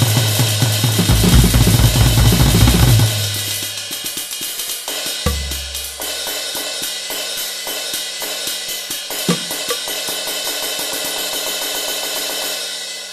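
Instrumental ending of a band's song: drum kit with cymbals and hi-hat. Heavy low bass notes drop away about three seconds in, leaving drums and cymbals that fade out at the very end.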